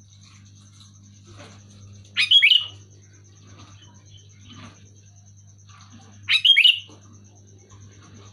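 Sooty-headed bulbul (kutilang) calling: two short, loud, bubbly phrases of quick up-and-down notes, about four seconds apart.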